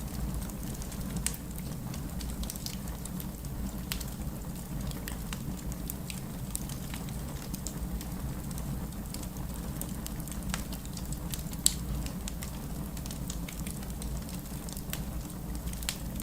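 Fireplace crackling with scattered sharp pops, one louder pop about two-thirds of the way through, over a steady bed of rain and low, distant city rumble.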